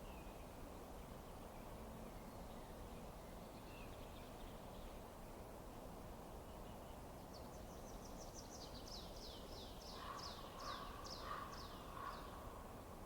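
A songbird sings a quick run of about a dozen high, downward-sweeping notes over a steady low background hiss. The run starts about halfway through, and lower notes join near the end.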